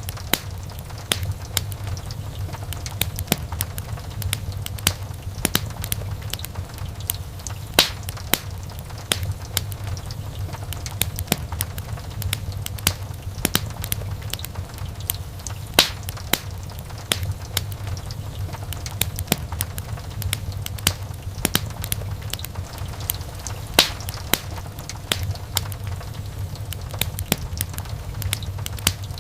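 Wood fire burning in a fireplace: a steady low rumble of flames under frequent sharp crackles and pops of burning logs. Three louder snaps stand out, about eight seconds apart.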